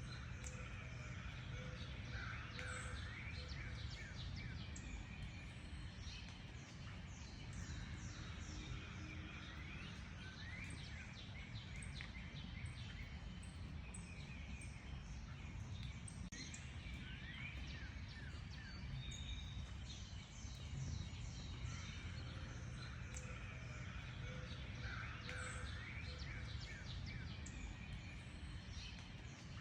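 Many songbirds chirping and trilling, with short rapid calls overlapping throughout, over a steady low background rumble.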